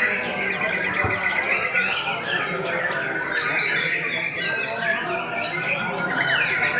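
Many caged songbirds singing and chirping at once in a dense, continuous chorus of rapid trills and whistles, over a murmur of people talking.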